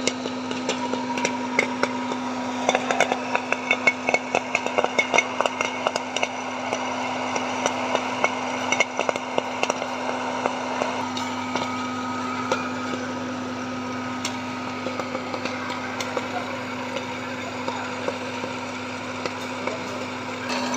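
Popcorn machine running with a steady hum while kernels pop in quick crackling clusters, densest over the first several seconds and thinning to scattered pops later on.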